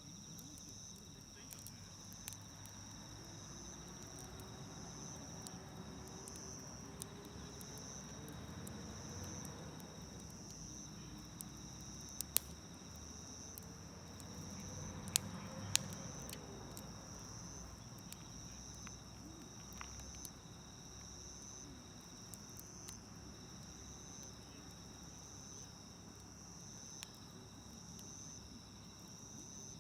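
Campfire burning with a low rumble and scattered crackles, with a few sharper pops a little before and just after the middle. Insects chirping in a steady, evenly pulsing high trill run under it throughout.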